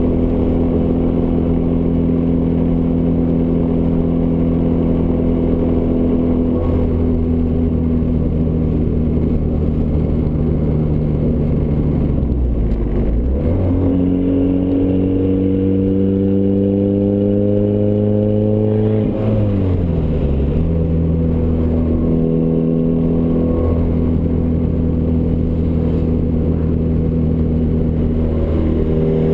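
Exhaust note of a turbocharged Ford Escort ZX2 four-cylinder through a custom 3-inch side-exit exhaust, running steadily. Near the middle the pitch dips, climbs steadily for about five seconds, then drops sharply and settles back to a steady drone.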